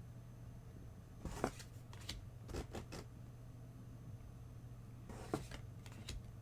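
Trading cards being handled and flicked through: a few short rustles and clicks, a cluster about a second to three seconds in and two more near the end, over a steady low hum.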